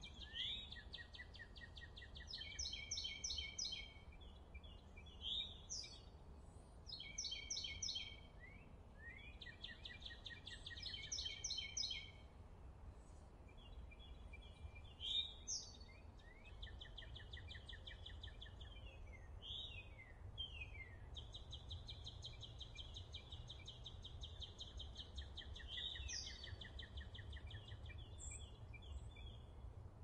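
Small songbirds singing in repeated phrases of rapid chattering trills and quick downward-swept notes, over a low steady rumble.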